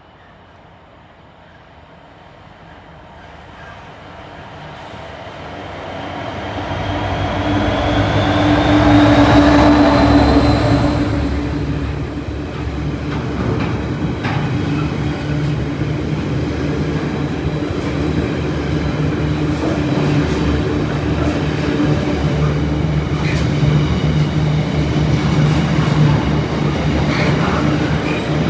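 Locomotive-hauled train approaching and running past on the main line. The sound builds over the first eight seconds to a peak about ten seconds in. It then carries on as a steady loud rumble of the train going by, with a low hum from the traction and the occasional click of wheels over rail joints.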